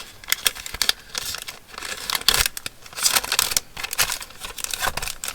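Paper ephemera and its packaging crinkling and rustling in the hands, on and off, as the small paper pieces are put back into their packet.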